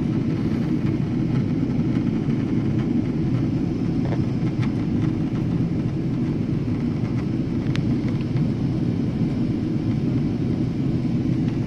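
Steady low drone of an airliner cabin in flight, the jet engines and rushing air blending into an even rumble. A few faint clicks sound over it, one sharper just before the eight-second mark.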